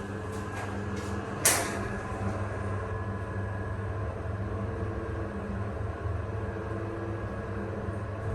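A hydraulic passenger elevator: a few clicks and one sharp knock about a second and a half in, then a steady low hum with several held tones as the car travels.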